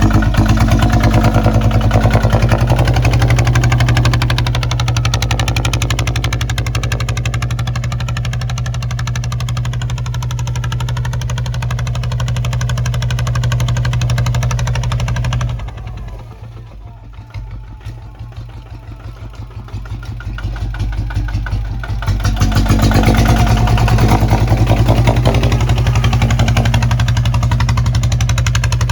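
Kubota ZT155 single-cylinder diesel engine of a plowing tractor running steadily. About halfway through it goes quieter for about six seconds, then comes back up to full level.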